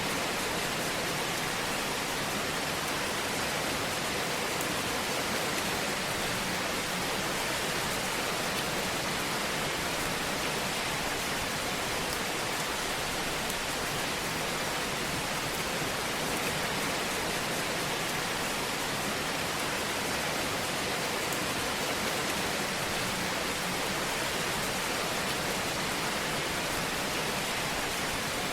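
Wood fire burning in a fireplace: a steady, dense hiss with fine crackling that never lets up.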